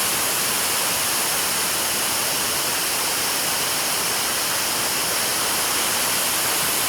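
Waterfall's falling water heard close by, a steady, even rushing hiss with no change.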